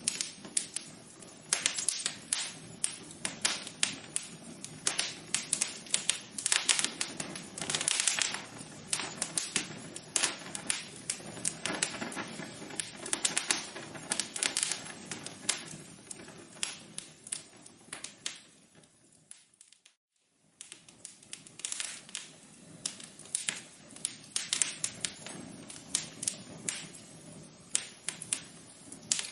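Fireplace fire crackling with irregular sharp pops over a soft hiss. It fades out and drops to silence for a moment about two-thirds of the way through, then starts crackling again.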